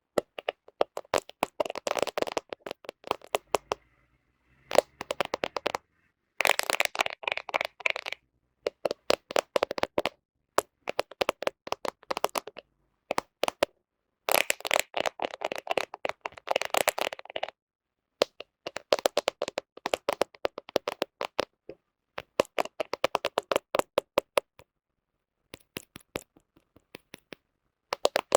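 Fingernails tapping on a smartphone camera lens close to the microphone: quick runs of sharp clicks, a few seconds each, broken by short pauses.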